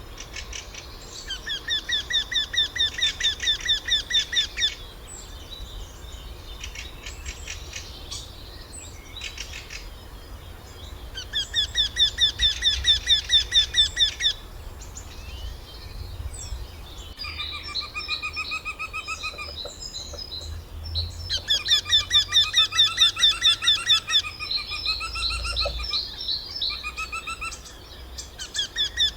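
Eurasian wryneck singing: runs of about a dozen or more ringing, squeaky notes at about four a second, each run swelling in loudness, repeated several times with pauses between. Fainter calls of other birds fill the gaps.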